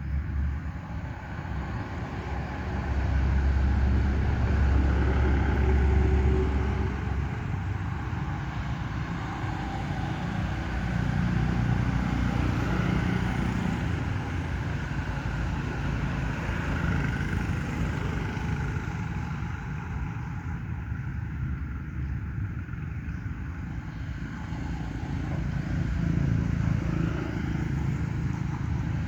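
Outdoor rumble of passing motor vehicles, swelling louder about three to seven seconds in and again near the end.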